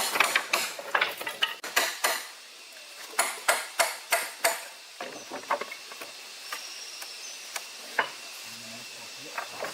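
Rapid sharp knocks, about three a second, in two runs, then a few scattered taps.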